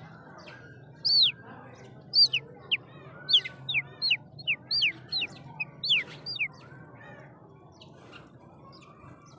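A bird calling: a quick run of about a dozen short, sharp whistled notes, each sliding downward in pitch. It starts about a second in and stops a little past the middle.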